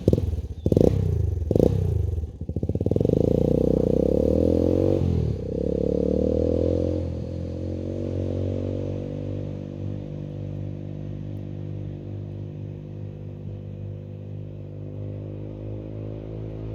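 Honda NX125's single-cylinder four-stroke engine through its new exhaust, ridden hard: a few sharp revs in the first two seconds, then the engine note pulls and swoops in pitch before settling into a steady drone that slowly fades.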